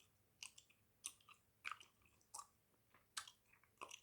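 Close-miked chewing of Hubba Bubba bubble gum: short wet clicks and smacks of the gum in the mouth, about two a second.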